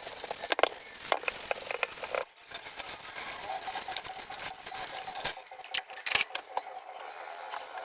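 Metal pots and pans being washed by hand: irregular clinks and scraping knocks over a steady hiss.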